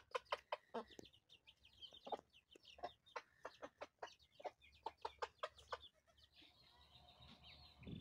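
Chickens clucking faintly: a string of short, sharp clucks through the first six seconds, fading out toward the end.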